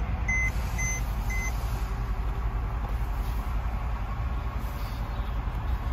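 Mercedes CLS 63 AMG S twin-turbo V8 idling, a low steady rumble heard from inside the cabin. A dashboard warning chime beeps about twice a second and stops about a second and a half in.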